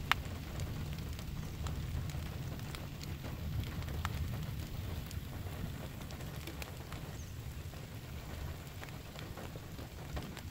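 Steady rain falling: a low, even patter with scattered sharp taps of single drops.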